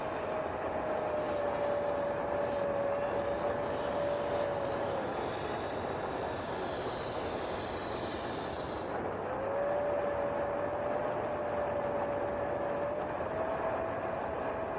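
Electric ducted fan of an RC BAE Hawk model jet whining at a steady pitch over a rush of air. The whine drops out about five seconds in and comes back about four seconds later, a little higher near the end.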